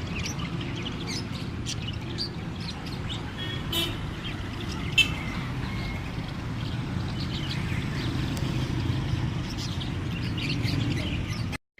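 Many caged pet birds in a shop chirping and tweeting in short, scattered calls, over a steady low rumble.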